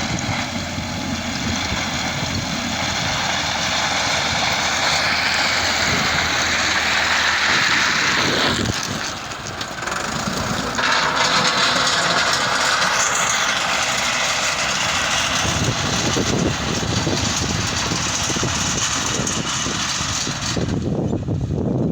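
Heavy road-construction machinery running: dense diesel engine noise that shifts abruptly several times, as from different machines or passes.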